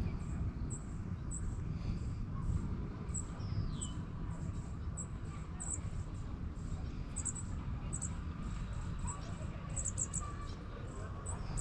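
Outdoor ambience of birds and insects chirping: short high chirps repeating irregularly, with one falling bird call about four seconds in, over a steady low rumble.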